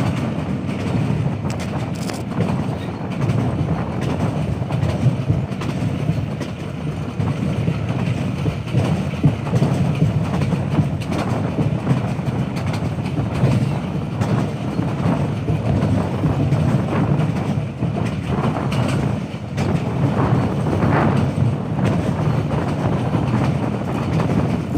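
Passenger train running along the track: a steady rumble of wheels on rail with an irregular clickety-clack.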